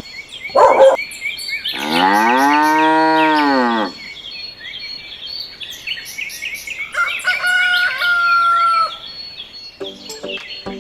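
A cow mooing once, a long call of about two seconds that rises and then falls in pitch, over continuous bird chirping. A short loud call comes just before it, and a higher, held call comes near the end.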